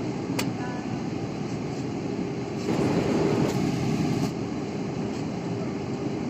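Steady low hum of an airliner cabin, with one sharp click about half a second in and a louder surge of the noise for about a second and a half midway.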